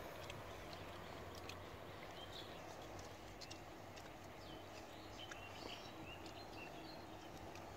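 Faint outdoor ambience with scattered short, high bird chirps.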